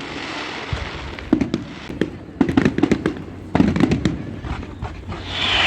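Fireworks going off: volleys of rapid crackling pops in three bursts, with a hiss building near the end.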